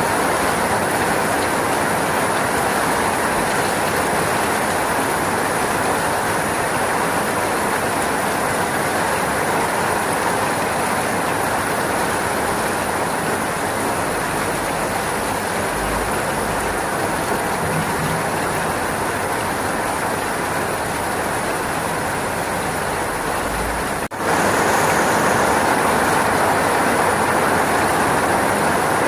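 Steady, dense rainfall hiss. It breaks off for an instant about 24 seconds in and resumes slightly louder.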